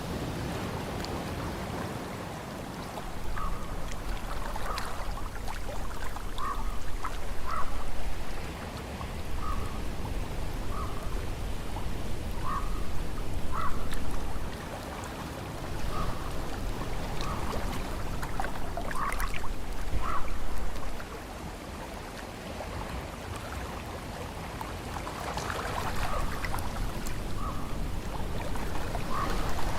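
Ocean waves washing in, each surge building for several seconds and then falling away. Short chirps repeat over it every second or so.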